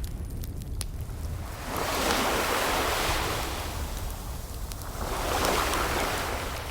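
Ocean surf: two waves wash in and recede, about three seconds apart, over a steady low rumble. A few faint fireplace crackles sound near the start.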